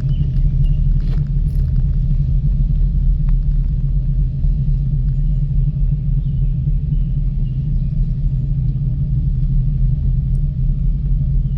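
Steady low rumble with a faint steady hum, from a Miyajima Ropeway gondola running along its cable.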